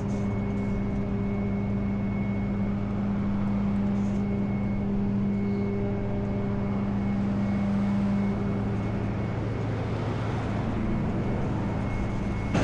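Flatbed tow truck's engine running steadily with an even hum. One of its tones drops away about eight seconds in.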